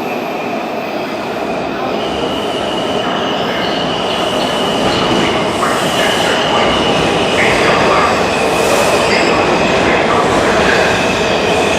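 Washington Metrorail subway train running on the rails, growing steadily louder as it comes closer, with a high steady squeal from the steel wheels joining about two seconds in.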